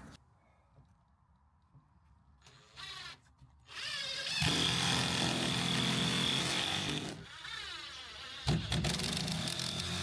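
A small motor spinning up with a rising whine about four seconds in and running steadily for a few seconds, then running again near the end.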